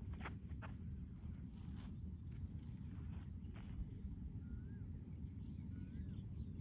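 Quiet outdoor ambience: a low rumble and a steady high-pitched buzz, with scattered faint clicks. A few short bird chirps come in the second half.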